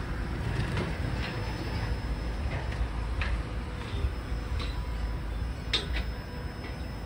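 Slow freight train of gondola cars and a Cat 315F track excavator: a steady low rumble with scattered sharp metallic clicks and squeaks, the sharpest a little over a second before the end.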